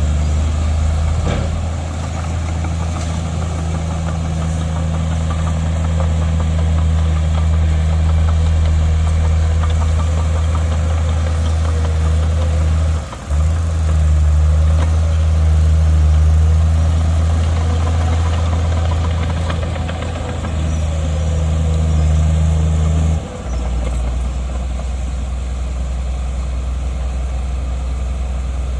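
Heavy diesel engine of earthmoving machinery running steadily with a deep drone. It dips out briefly twice, and after the second dip it carries on a little quieter.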